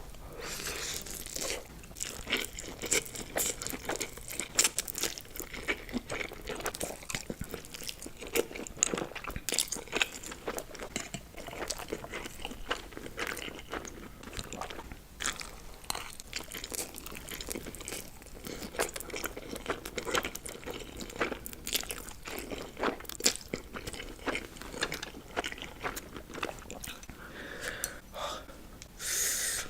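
Close-miked eating sounds: chewing and wet mouth clicks with frequent crunchy crackles as spicy Korean noodles are eaten, in quick, irregular succession.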